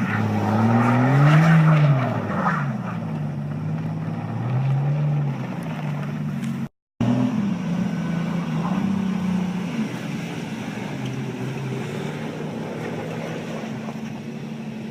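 Vehicle engine revving up and down several times, its pitch rising and falling. After a brief dropout it runs on at a steadier pitch.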